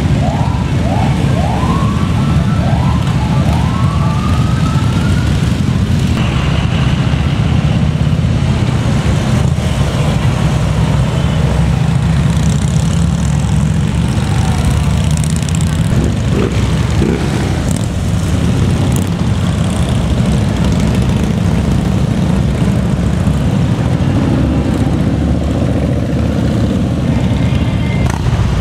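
Steady low rumble of a mass of motorcycle engines riding past. In the first few seconds a siren gives a quick run of short rising whoops, ending in one longer rise.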